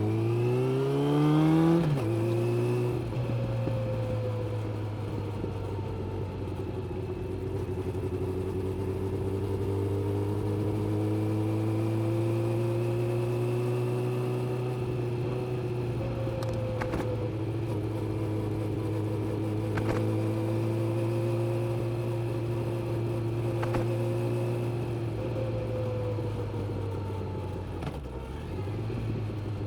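Suzuki GSX600F inline-four motorcycle engine revving up through a gear for about two seconds, then dropping in pitch at a gear change. It then runs at a steady cruise, its pitch drifting gently up and down, with a brief dip near the end. A few light clicks sound in the middle.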